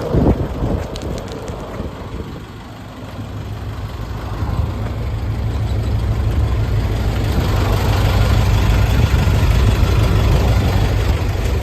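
Mitsubishi Canter truck's 4D35 four-cylinder diesel engine running at idle, with a short thump right at the start. The engine gets louder from about three seconds in and then holds steady.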